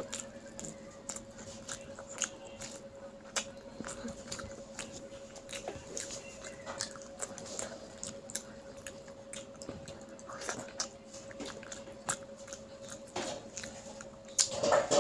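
A child eating rice and fish curry by hand: wet chewing and lip-smacking clicks, with fingers working the rice on the plate, over a steady faint hum. The mouth sounds get louder near the end.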